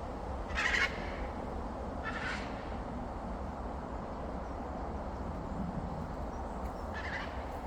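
A pet parrot giving three short, harsh squawks: one a little under a second in, a fainter one about two seconds in, and another near the end, over steady low background noise.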